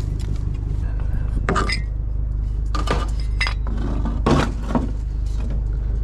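Pieces of scrap metal clanking and clinking against each other as they are handled, about five sharp knocks with some ringing, the loudest a little past the middle, over a steady low hum.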